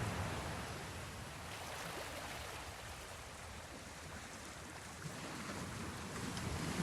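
Sea waves washing in a steady rush that ebbs through the middle and swells again near the end, with one faint click about five seconds in.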